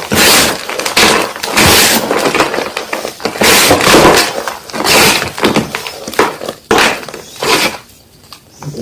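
Yellow gym chalk crunching and crumbling in a series of loud crunches, roughly one a second, with a pause near the end.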